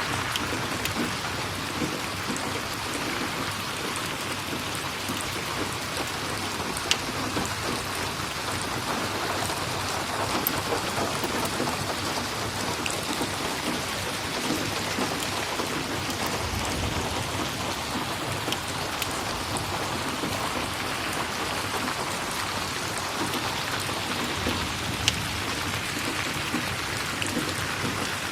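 Steady rain falling, an even hiss of drops, with a few sharp pops standing out from it.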